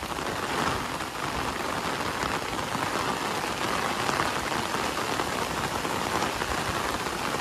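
Heavy rain falling steadily, an even, dense hiss of drops on surfaces with no letup.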